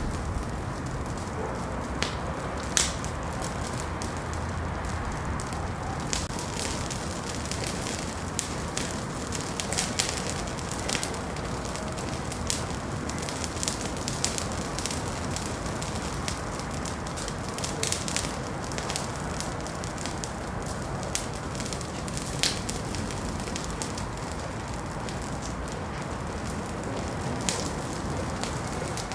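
Wood fire burning in a fireplace: a steady low rumble of flame with sharp crackles and pops at irregular moments.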